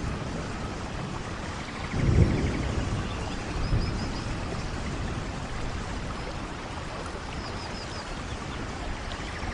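Steady rain falling, with low gusty rumbles swelling about two seconds in and again just before four seconds. Faint short high chirps come twice over the rain.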